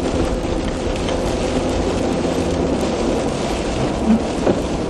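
Steady road and engine noise heard from inside a four-wheel-drive vehicle driving along a plowed street.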